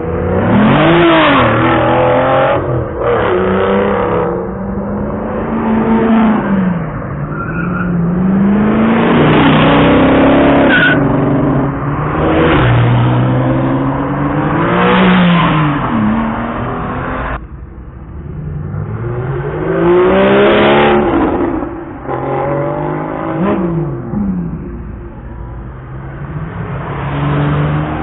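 Sports car engines revving hard, their pitch climbing and dropping again and again as the cars accelerate and lift off.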